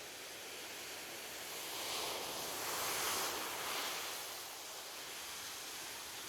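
Ocean surf on a beach: a steady wash that swells as a wave breaks about two seconds in, peaks around three seconds, and fades again.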